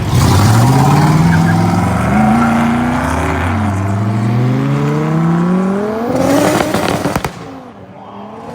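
A modified car's engine accelerating hard, its pitch climbing, dropping briefly at a gear change about three and a half seconds in, then climbing again. Near the end, a burst of exhaust pops and crackles as the throttle comes off, then the engine sound falls away.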